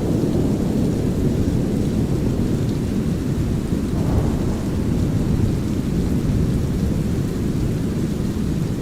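A steady, deep rushing noise of brown noise mixed with light rain and a low rumble of thunder, with a slight swell about four seconds in.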